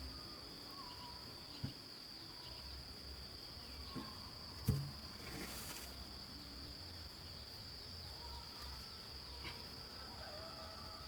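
Steady, high-pitched drone of crickets or other insects in the countryside, faint, with a few soft whistle-like calls beneath it. Three sharp knocks break in, the loudest near the middle.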